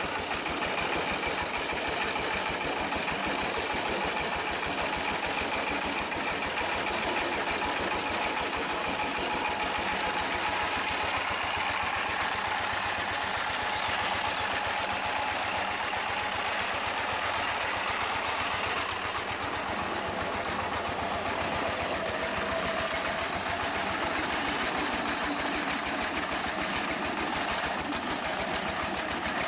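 Diesel power tiller engine running steadily, a fast even beat that holds the same pace and level throughout.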